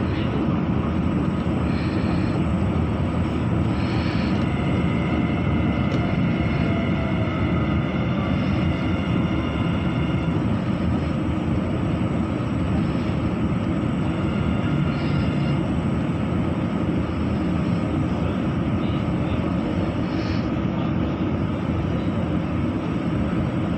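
Steady running rumble heard inside an electric commuter train as it pulls into a station, with faint high whining tones in the first part and a faint falling tone about a third of the way in.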